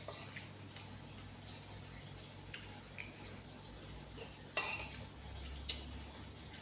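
Eating utensils clicking against a bowl of instant noodles: a handful of short, separate clinks, the loudest about four and a half seconds in.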